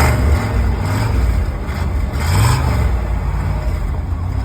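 Car engine running at a loose idle with a throttle blip about two seconds in that rises and falls in pitch.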